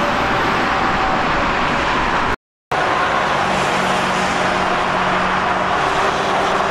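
Steady, loud rolling noise of a passing train, cut off by a short dropout about two and a half seconds in; after it the noise carries on with a steady low hum added.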